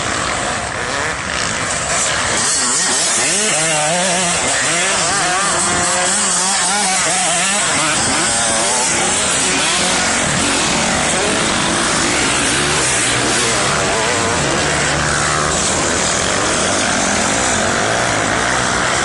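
Motocross dirt bike engines revving, the pitch rising and falling over and over.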